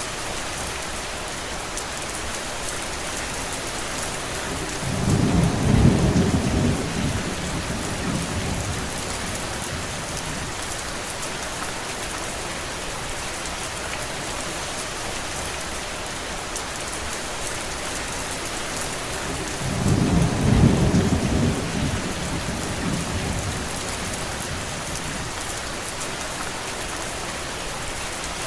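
Steady rain hissing, with two low rolls of thunder, each swelling for a couple of seconds and dying away: one about five seconds in, the other about fifteen seconds later.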